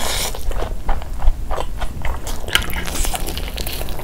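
Close-miked chewing and biting of a mouthful of mutton kabsa rice and mutton leg meat, with quick irregular mouth clicks several times a second.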